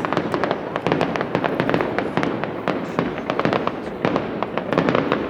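Aerial fireworks display going off in a rapid, dense barrage of overlapping bangs and crackles.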